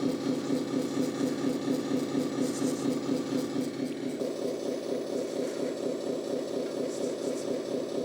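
Simulated diesel truck engine idling from an RC truck's onboard sound module, a steady pulsing drone whose tone shifts about four seconds in.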